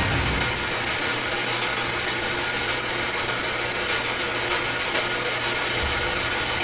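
Steady hiss with a constant low hum underneath, unchanging throughout.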